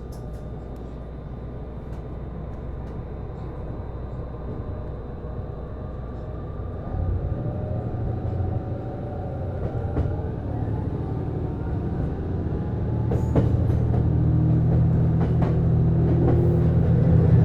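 Interior running sound of a JR East HB-E210 series hybrid railcar accelerating. The inverter and traction-motor whine rises in pitch, and the Komatsu DMF15HZB-G diesel engine that drives the generator steps up about seven seconds in and grows louder again near the end, with a few sharp knocks from the running gear.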